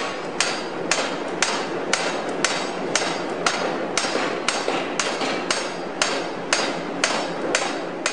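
Sharp, evenly spaced knocks, about two a second, over a steady rushing noise.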